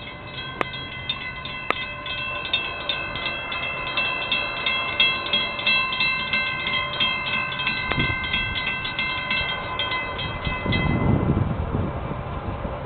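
Florida East Coast Railway freight train passing at track speed, with a steady high ringing of several tones and fast regular ticking that stops about eleven seconds in, followed by a surge of low rumble.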